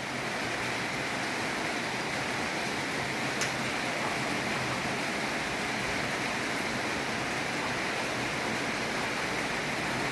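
Steady rain falling as an even hiss, with one small tap about three and a half seconds in.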